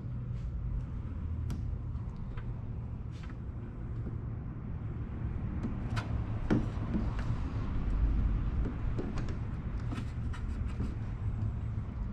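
Hands-on work with parts and tools: scattered small clicks and knocks, with a heavier knock about six and a half seconds in, over a steady low hum.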